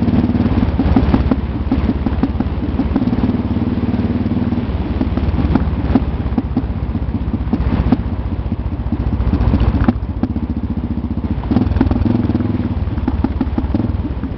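Motorcycle engine running as it is ridden along a dirt road, its note shifting with throttle a few times, with knocks and rattles from the rough surface.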